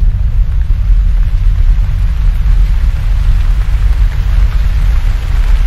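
Steady heavy rain with a continuous deep rumble underneath.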